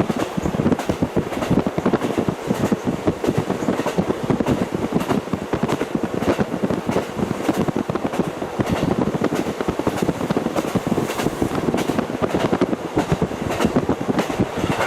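KiHa 40 diesel railcar running along the line, heard from inside with the window fully open: a steady rumble of wheels on rail and rushing air, with many small clicks from the track.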